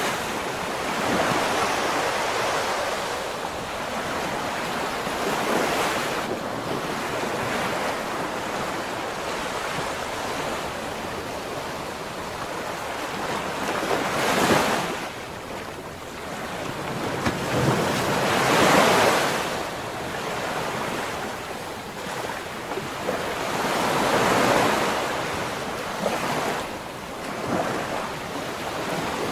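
Ocean waves breaking and washing on the shore, a continuous rush of surf that swells with each breaker, about five surges, the loudest near the middle.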